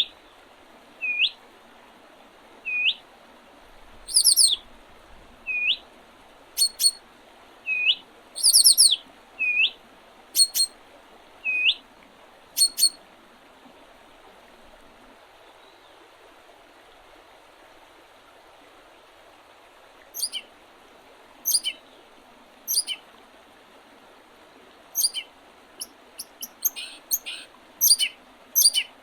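Wild birds calling in early spring: short upswept notes repeated every second or so, mixed with sharp, high chips. The calls stop for several seconds midway, then come back quicker and denser near the end.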